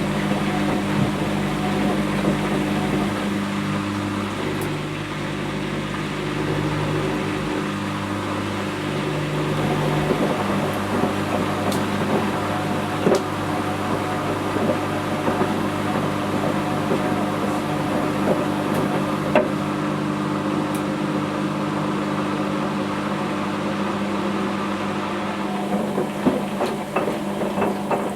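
Whirlpool Indiana 1400 front-loading washing machine running: a steady motor hum with the drum turning, with a few light knocks scattered through.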